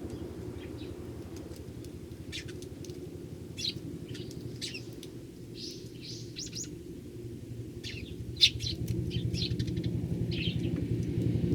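Eurasian tree sparrows chirping, many short calls scattered irregularly, over a low steady rumble that swells near the end.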